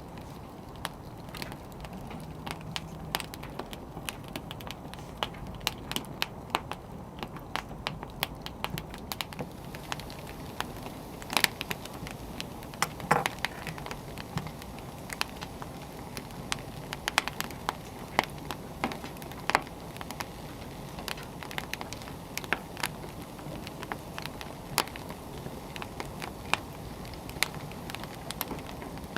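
Firewood burning with a steady low rush, crackling and popping at irregular intervals, with a few louder pops near the middle.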